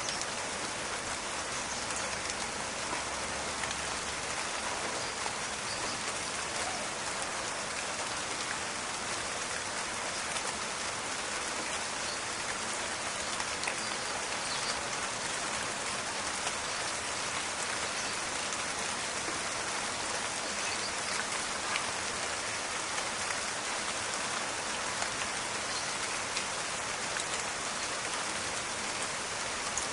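Steady rain falling in a forest, an even hiss with scattered crackling drop ticks.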